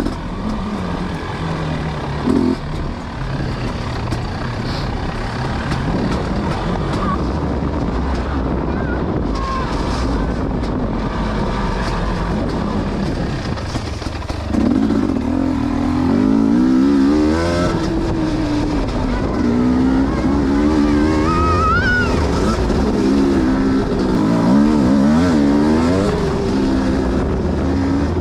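Dirt bike engine running on a slippery trail, its revs changing; from about halfway the engine gets louder and the revs rise and fall again and again.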